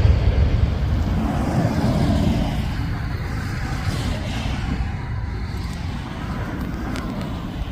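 Aircraft engine rumble, loud at first and fading steadily as the plane moves away.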